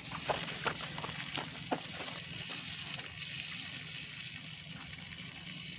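Steady rain falling, an even hiss, with a few sharp taps in the first two seconds.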